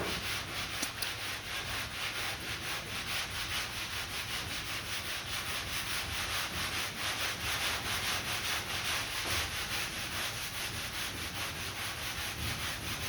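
Sandpaper on a hand sanding block rubbing over lacquer primer on a bondo-filled dent repair, in rapid, even back-and-forth strokes with a steady scratchy hiss. This is block sanding of the primer to level the repair before paint.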